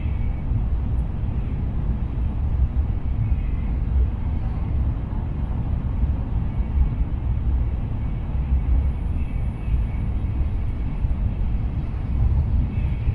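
Cabin noise of a Tokaido Shinkansen train running at speed: a steady low rumble of wheels on track, with a faint high whine that comes and goes.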